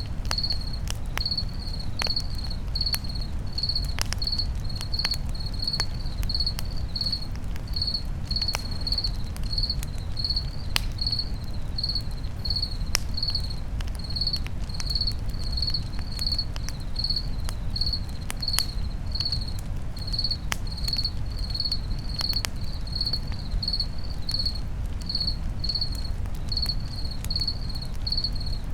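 A cricket chirping steadily, about one and a half chirps a second, over a crackling campfire with scattered sharp pops and a low steady rumble.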